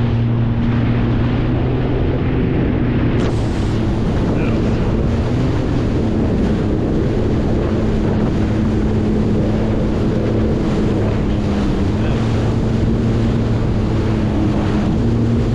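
Jet ski engine running at a steady pace, its pitch holding nearly even while riding, with wind buffeting the microphone and water rushing past.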